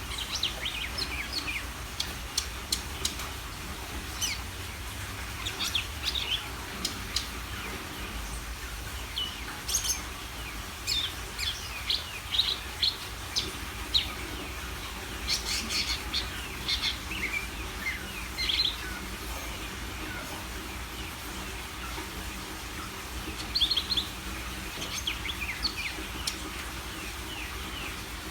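A cucak ijo, or green leafbird, singing busily. It gives quick bursts of short, high, varied chirps and whistled notes, phrase after phrase with brief gaps, over a faint steady low hum.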